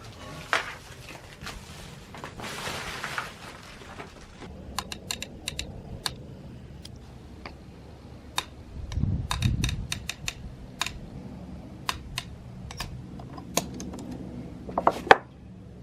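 Scattered light clicks and taps of hard objects being handled, with a rustle about two and a half seconds in, a dull thump about nine seconds in, and a quick cluster of clicks near the end.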